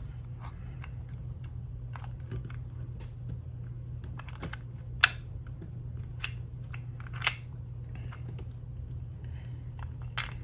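Small metal parts of a 1/5-scale RC truck transmission clicking and tapping as it is taken apart by hand, with two sharper clinks about five and seven seconds in.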